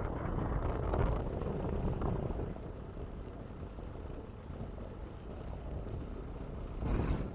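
Wind buffeting the microphone: a rough, rumbling noise with no clear engine note, swelling about a second in and again near the end.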